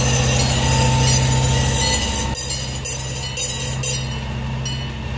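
Miniature passenger train passing over a grade crossing: the locomotive runs with a steady drone and the wheels rattle on the rails. The crossing bell rings alongside, thin and weak-sounding.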